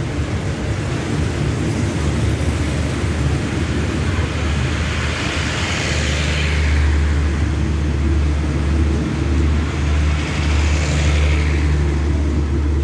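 Passenger carriages of a departing train rolling past at low speed: a steady rumble of wheels on the rails over a low hum, with a rushing hiss that swells and fades twice, about six and eleven seconds in.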